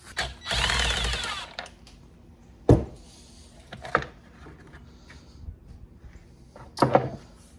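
Husqvarna 136 chainsaw's plastic top cover being taken off: a noisy rasping run of about a second and a half, then a sharp knock and a lighter click as the cover comes loose and is set down.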